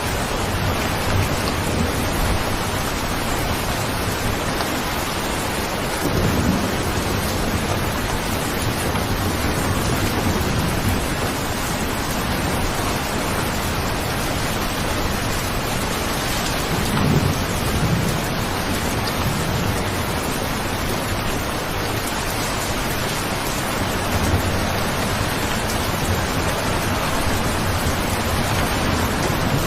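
Steady rain, an even dense hiss, with low rolls of thunder swelling and fading about three times, the strongest a little past halfway.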